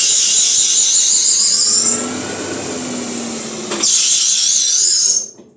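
Bicycle disc brake spun at high speed in a Maximat lathe, giving a loud, high-pitched wavering shriek. The shriek eases about two seconds in, comes back strongly about four seconds in, then stops near the end.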